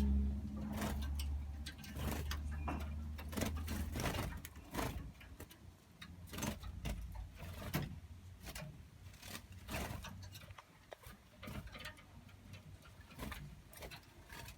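Balkan goldfinch bathing, making quick, irregular splashes and clicks in a small water bath. A low steady hum runs under the first few seconds and fades out about four seconds in.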